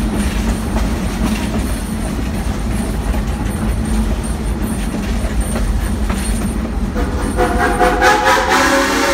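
Excursion train's passenger cars rumbling and rattling along the track. About seven seconds in, the steam locomotive's whistle sounds, a steady chord held for nearly two seconds.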